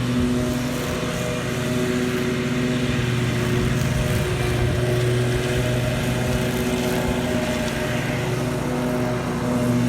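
Small petrol engine of lawn-care equipment running steadily at a constant speed, with a slight dip in pitch about four seconds in.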